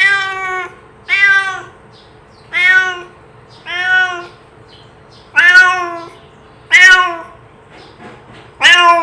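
A domestic cat meowing again and again to call other cats, seven short meows at fairly even spacing, about one every second and a half.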